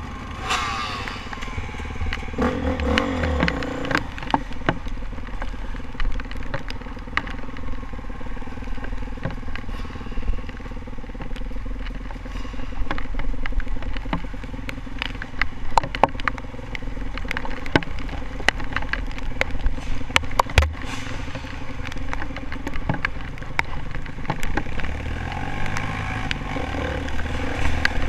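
Honda CRF450R dirt bike's single-cylinder four-stroke engine running and revving while riding, with frequent sharp clicks and clatter throughout. The engine pitch falls just after the start and climbs again near the end.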